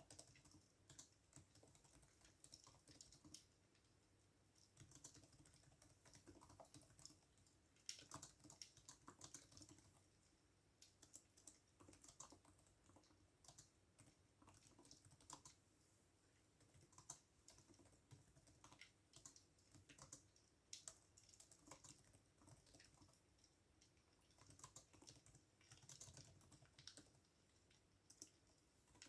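Faint computer keyboard typing: irregular runs of keystroke clicks broken by short pauses.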